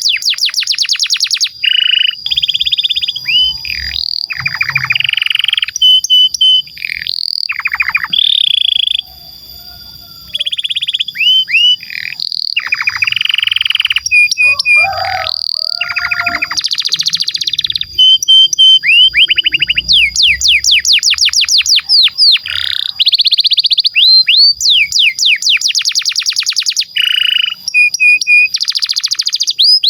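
Domestic canary singing a long, continuous song of fast trills and rolls, switching from one rapid repeated phrase to the next every second or two, with a short lull about nine seconds in. A thin steady high tone holds underneath the song.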